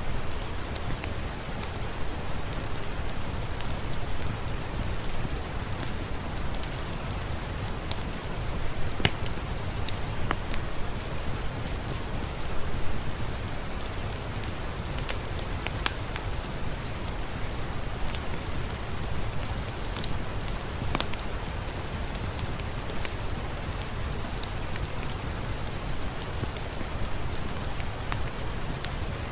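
Steady rain with a low rumble underneath, and scattered sharp crackles and pops from a wood fire in a fireplace.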